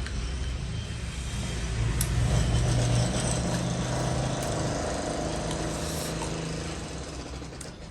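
A motor vehicle's engine going past, a low steady hum that grows louder over the first few seconds and then slowly fades away.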